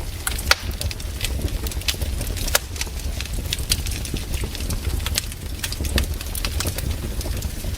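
Wood campfire crackling and popping: many sharp, irregular snaps over a low, steady rumble.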